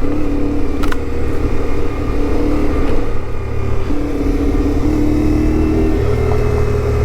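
CFMoto 450MT parallel-twin motorcycle engine running under way, its pitch stepping down and back up a few times with the throttle, over a steady low rumble.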